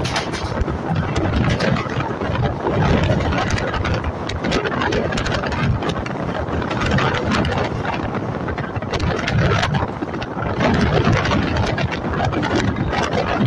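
Express passenger train running at speed, heard from on board a coach: a steady rushing rumble with frequent rattling clicks throughout.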